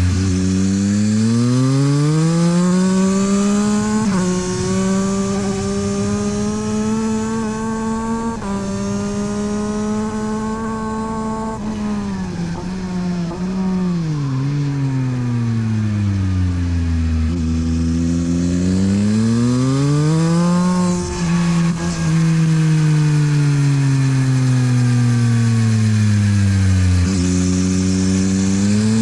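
Yamaha MT-09 SP's inline-three engine through a LeoVince exhaust, ridden hard on track: the revs climb with upshifts about 4 and 8 seconds in, fall away under braking and downshifts, then rise and fall twice more as the bike accelerates out of corners and slows into them.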